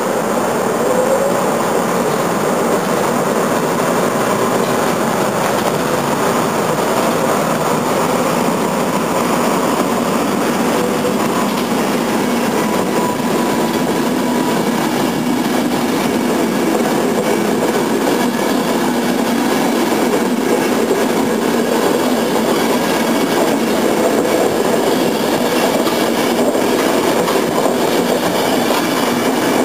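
Locomotive-hauled Eurostar City passenger train rolling through the station, a steady noise of coach wheels running on the rails as the carriages pass, with a faint wheel squeal about halfway through.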